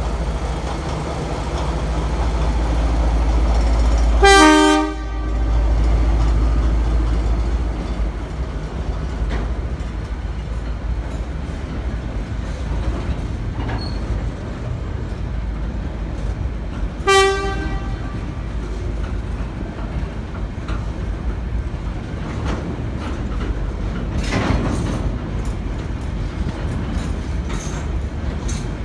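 A train running with a steady low rumble. Its horn sounds twice: a blast about four seconds in and a shorter one about seventeen seconds in.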